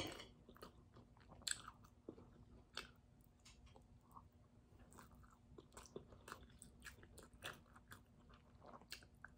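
Faint chewing of rice and spicy pork ribs, with scattered small clicks and ticks.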